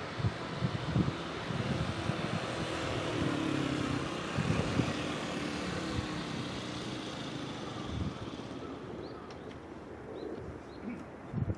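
Surf rushing onto the beach, swelling and then fading away after several seconds, with wind buffeting the microphone. A few short bird chirps come near the end.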